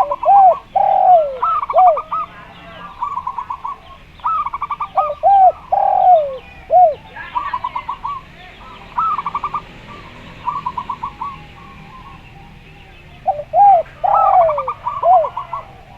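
Zebra dove and spotted dove cooing against each other. Quick bursts of rapid staccato coos repeat throughout, and sets of lower, swooping coos come in three bouts: at the start, around five to seven seconds in, and near the end.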